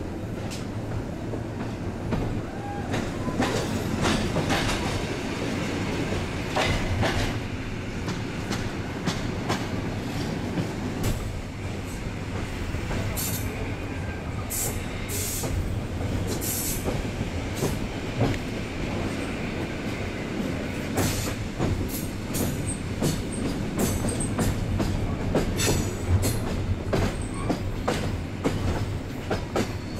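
Passenger train running along the track, heard from a carriage: a steady rumble of wheels on rail with irregular clicks and knocks over rail joints. Brief high wheel squeals come about halfway through.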